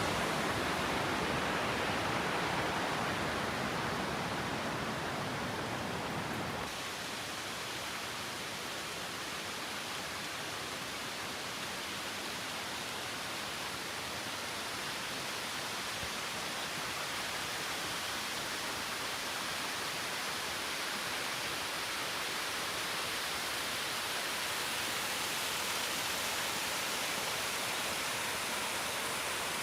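Steady rush of water from a waterfall. About seven seconds in the sound shifts abruptly, losing some of its low rumble.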